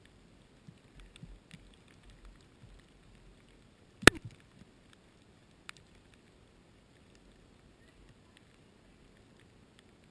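Mountain bike rattling with scattered small clicks and knocks, and one sharp loud knock about four seconds in.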